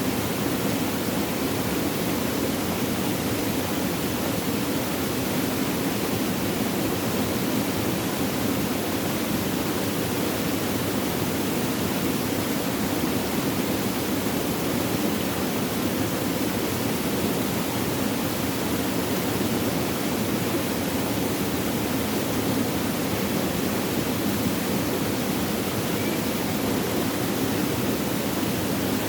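Flowing water: a steady, unbroken rush of running water, fullest in the lower range.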